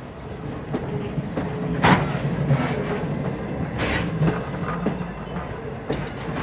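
Railroad passenger coaches rolling past close by, a steady rumble of steel wheels on rail with sharp clacks as the wheels cross rail joints, the loudest a little under two seconds in and again about four seconds in.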